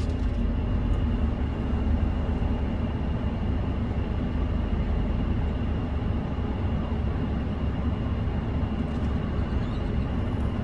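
A car's engine and road noise heard from inside the cabin: a steady low rumble as the car rolls slowly up the drive-through lane, with a faint steady high whine over it.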